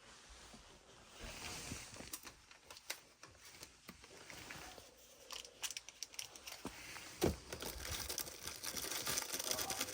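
Crinkling and rustling handling noise, with many short irregular clicks and taps that thicken toward the end and one louder knock about seven seconds in.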